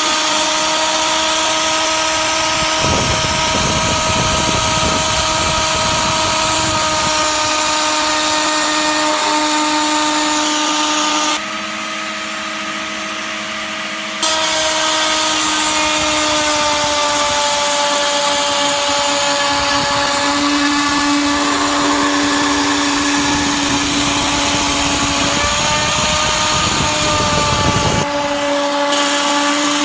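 Die grinder spindle on a CNC machine running at about 13,000 RPM with a steady whine while its 3 mm two-flute bit mills a part; rougher cutting noise comes and goes as the bit works the material. The sound drops and changes abruptly for a few seconds near the middle.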